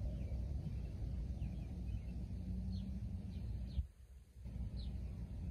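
Birds chirping in short, falling calls several times over a steady low rumble of wind noise, which drops away briefly about four seconds in.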